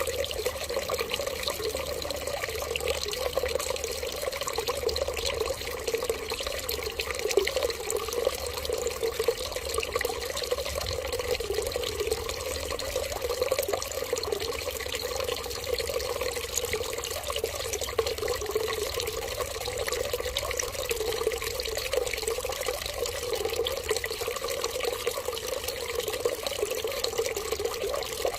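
A steady stream of running water, even and unbroken.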